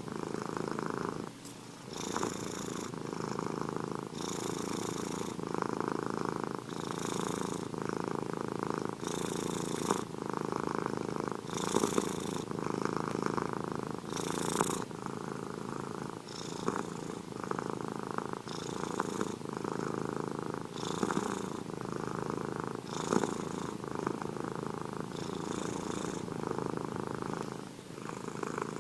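Domestic cat purring steadily and close up, with a rhythmic rumble and a brighter hiss that comes back about every two and a half seconds.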